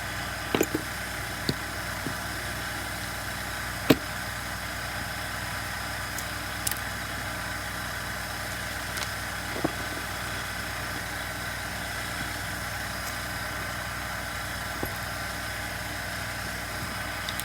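A steady mechanical hum with fixed tones and no change in speed, with a few sharp clicks and knocks of small parts or tools being handled. The loudest knock comes about four seconds in.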